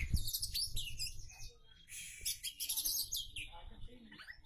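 Oriental magpie-robin (kacer) singing a fast, varied song packed with mimicked phrases of other birds. The song comes in quick changing bursts, with a short break about one and a half seconds in before it starts again.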